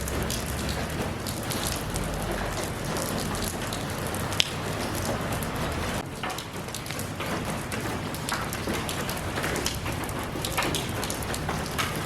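Steady rain falling, with many individual drops pattering on surfaces and one sharper drip impact about four seconds in.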